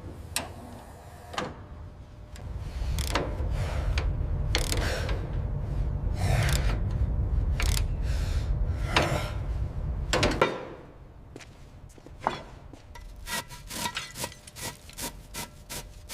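Restoration work sounds of scraping, rubbing and mechanical clatter. A low rumble runs under scattered sharp strikes for about the first ten seconds, then stops abruptly. A quick run of clicking and rasping scrapes follows near the end.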